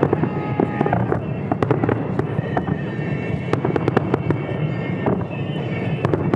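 Fireworks display: a dense, continuous run of sharp crackling and popping bursts from aerial salute shells, many a second.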